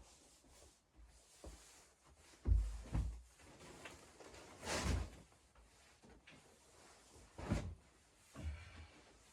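Several dull thumps and knocks at irregular intervals, the loudest about two and a half seconds in and again near five and seven and a half seconds.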